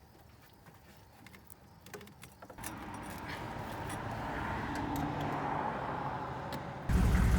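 A few small handling clicks, then from a few seconds in the truck's 6.5 engine is heard running and getting louder. Near the end it jumps suddenly to a loud, steady idle close by, running to warm up so the coolant flows through the freshly clamped hose.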